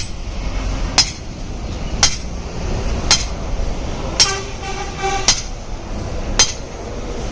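Hammer striking metal about once a second, sharp ringing blows, as the worn universal-joint cross on a truck's drive shaft is knocked out and replaced. A brief horn-like tone sounds near the middle, over a steady low rumble.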